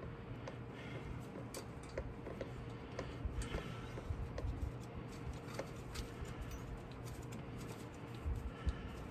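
Scattered light clicks and taps of hand work with small hardware, as nuts and lock washers are handled and started on the drive shaft flange bolts, over a faint steady hum.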